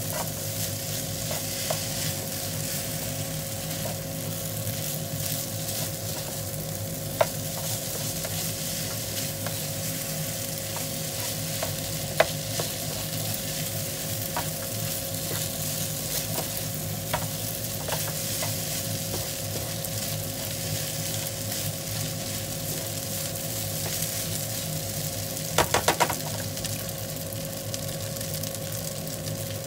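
Fried rice sizzling in a nonstick frying pan as a spatula stirs and turns it, with occasional sharp clacks of the spatula against the pan and a quick run of four clacks near the end.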